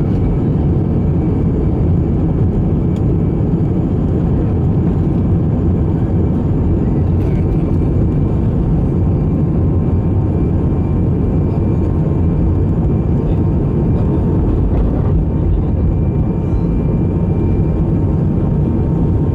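Steady low rumble inside an Airbus A318 airliner cabin, with a thin, faint, steady whine above it and a few light ticks.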